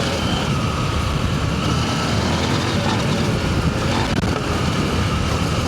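Adventure motorcycle under way on a rough dirt trail: steady engine and wind noise mixed with constant jolting rattle from the bumpy ground.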